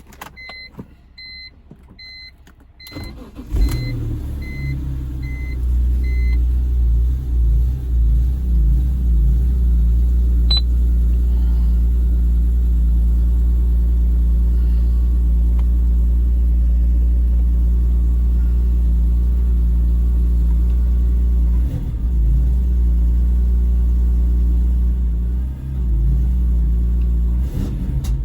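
2005 BMW M3's S54 straight-six cold-starting: a short crank about three seconds in, the engine catching, then idling steadily. A warning chime beeps in a steady repeating pattern through the first six seconds.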